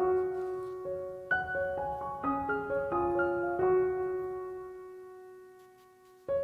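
Soft solo piano music: single notes over sustained chords. About three and a half seconds in, a chord is held and slowly fades almost to nothing before the playing resumes at the very end.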